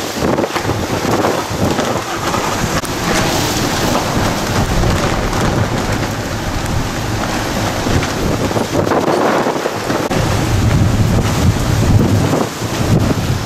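Strong storm wind gusting over the microphone, with a steady hiss of rain. The low buffeting swells harder in the second half.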